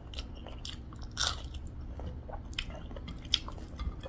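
Close-up eating sounds: a person chewing pork and rice eaten by hand, with scattered wet mouth clicks and smacks, a louder bite about a second in and a sharp click near the end.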